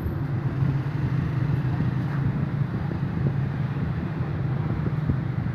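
Motorcycle engine running steadily, a low, even hum mixed with road and wind noise.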